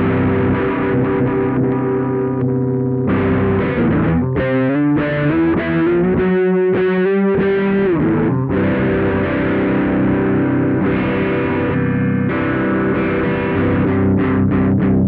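Electric guitar played through a DIY distortion pedal, heavily distorted: sustained chords, then a held note bent upward in the middle, then quick repeated picked chords near the end.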